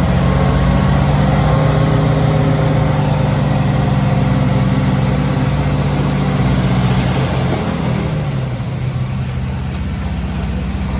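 Heavy diesel engine of earthmoving machinery running steadily under load, its pitch dropping about eight seconds in as it eases off.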